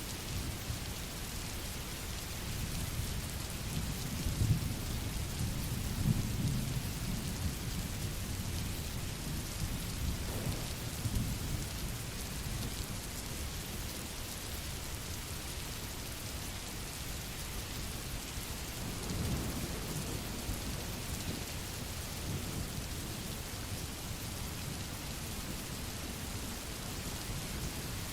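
Steady rain making an even hiss, with low rumbles of thunder swelling up several times.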